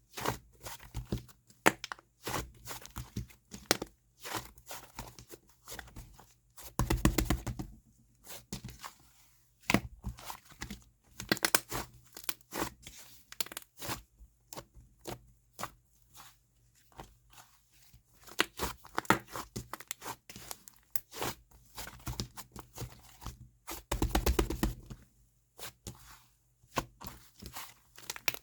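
Hands kneading and pressing clay slime, giving off irregular crackling and popping clicks. There are dense runs of crackles about seven seconds in and again around twenty-four seconds.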